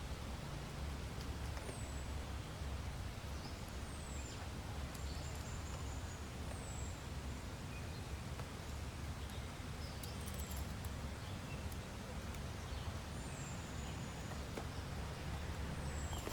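A small bird repeats a short, high call that falls in pitch, about every two seconds, over a steady low rumble and hiss.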